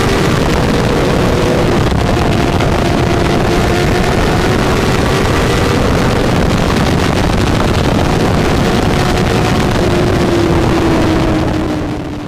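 Honda CBR1000RR-R's inline-four engine running hard at a nearly steady high speed, its note drifting slowly and dipping slightly near the end, under heavy wind rush. The sound fades out in the last second.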